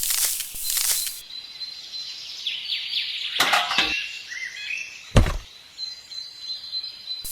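Rhythmic hissing strokes for about the first second, then birds chirping over a steady high tone, with a short clatter about three and a half seconds in and a single loud thump about five seconds in.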